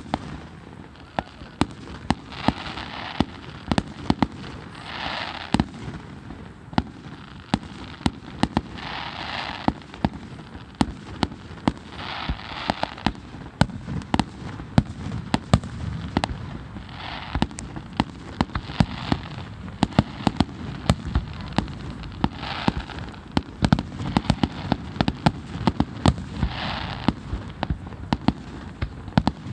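Fireworks going off in quick succession: many sharp bangs and pops throughout, with a second-long hiss every few seconds.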